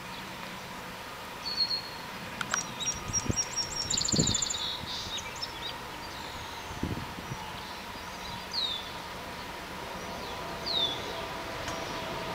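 Small birds chirping and calling, with a quick trill about four seconds in and a couple of short falling calls later on. A few soft low thumps.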